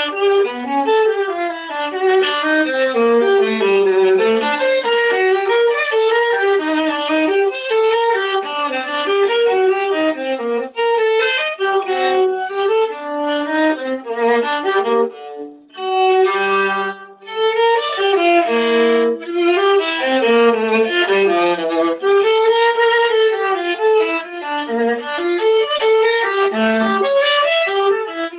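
Viola played solo, a flowing melodic line of bowed notes with only brief pauses about eleven and sixteen seconds in.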